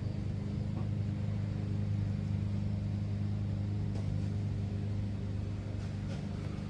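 Steady low background machine hum, unchanging throughout, with a couple of faint ticks about four and six seconds in.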